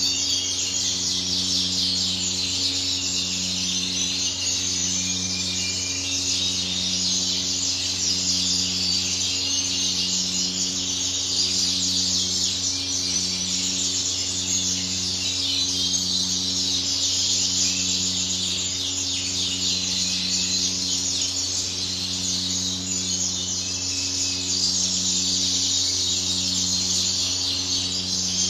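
Many caged birds chirping and twittering without a break, over a steady mains-like hum. A low buzzing tone pulses on and off about once a second beneath them.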